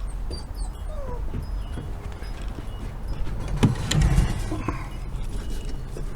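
A dog whimpering, with short high peeps from young chickens. There is a louder bump about four seconds in.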